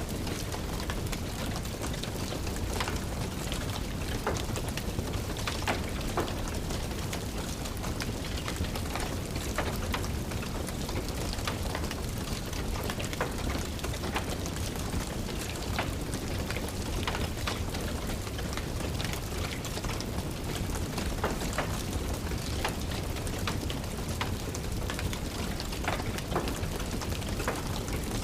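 Wood fire crackling with frequent irregular sharp pops, over the steady hiss of rain.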